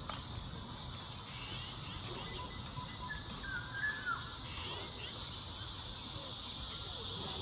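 Insects trilling in a steady high-pitched chorus that comes and goes in short pulses, over a low rumble. A few faint short chirps sound a little past the middle.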